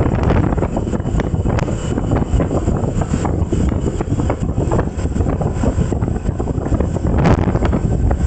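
Wind buffeting the microphone: a loud, gusty rumble with irregular thumps and no speech.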